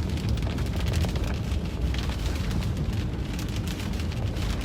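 Steady low rumble of a car driving, heard from inside the cabin, with rain pattering in many sharp ticks on the roof and windshield.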